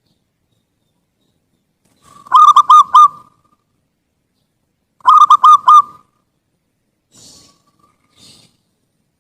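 Zebra dove (perkutut) cooing: two short phrases of four or five quick, hooked notes, about three seconds apart.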